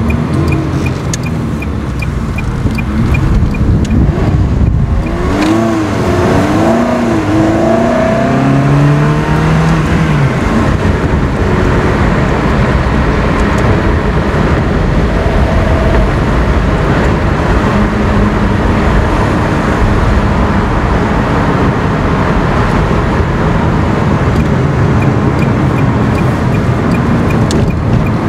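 Ferrari 360 Spider's V8 engine and road noise heard from inside the cabin while driving. The engine's pitch rises and falls between about five and ten seconds in, then settles into a steady run.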